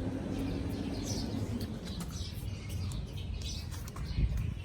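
A puppy making a few short, faint, high-pitched squeaks, the whimpering of a hungry pup, over a steady low rumble, with a low thump about four seconds in.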